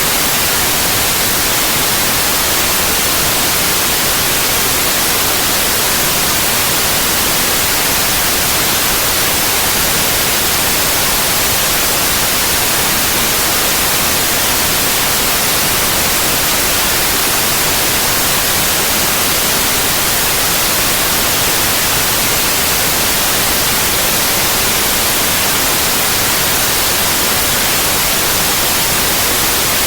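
Steady synthetic white noise: a constant, even hiss, strongest in the treble, with no changes or interruptions.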